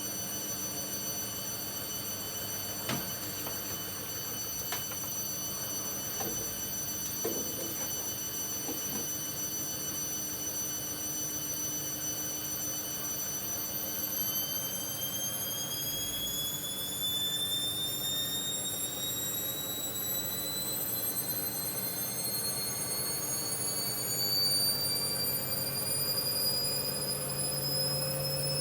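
Hoover Dynamic Next washing machine's motor whining at a steady pitch, with a few light clicks from the drum early on. About halfway through the whine starts to rise steadily as the drum speeds up into a spin.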